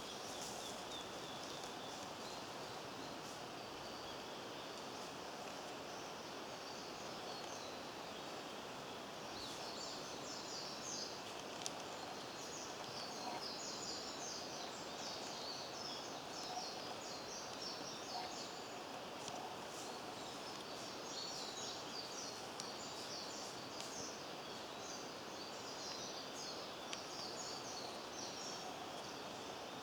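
Steady outdoor ambient noise, with small birds chirping high and irregularly from about ten seconds in until near the end.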